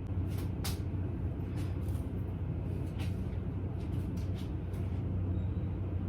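A steady low mechanical hum running throughout, with a dozen or so light clicks and taps scattered through it.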